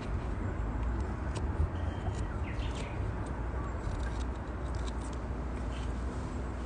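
Campfire crackling: a few light pops over a low steady rumble, with a short bird chirp about two and a half seconds in.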